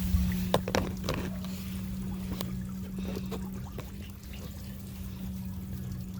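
Water trickling over a steady low hum, with a few sharp clicks about a second in.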